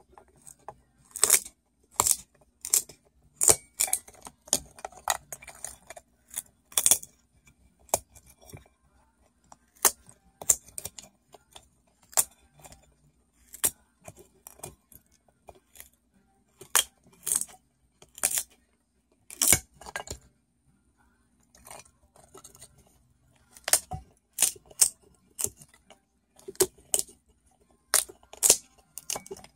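A cockatoo busy at work, making irregular sharp clicks and clinks that come in clusters with short pauses, as of small hard objects being handled and knocked together.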